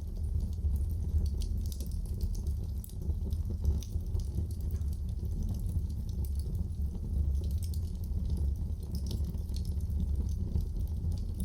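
Wood fire in a fireplace crackling, with irregular small pops and snaps over a steady low rumble of the flames.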